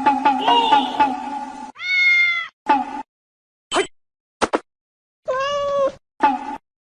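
A cat meowing: two drawn-out meows, about two and five seconds in, with short sharp sounds between them. Music fades out in the first second and a half.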